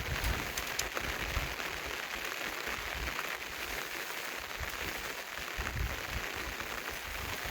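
Steady rain falling: an even hiss with a few sharper drop ticks in the first second.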